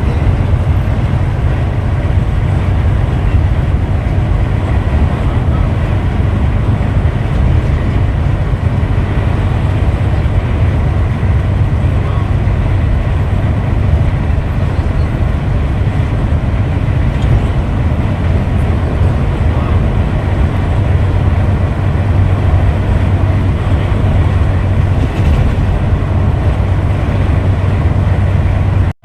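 Steady low rumble of a Scania Metrolink multi-axle coach travelling at a constant speed, engine and road noise running evenly.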